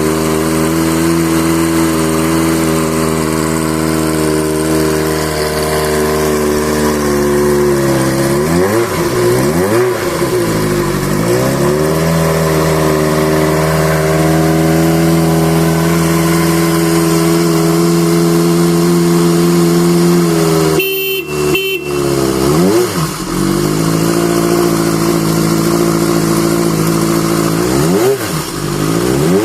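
Kawasaki Z650 air-cooled inline-four motorcycle engine running at idle. Its revs sag and pick back up several times, near the start, around ten seconds in, and twice in the last third.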